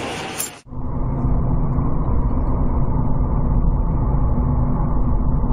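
Steady, dull rumble of a car's engine and road noise heard from inside the cabin through a dashcam microphone. It starts after a brief drop-out about half a second in.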